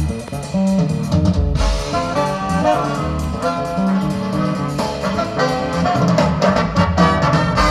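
Big-band jazz instrumental: a brass and saxophone section playing over a drum kit.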